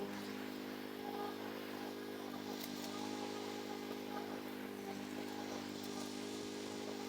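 Small petrol engine of lawn-care equipment running steadily at an even speed.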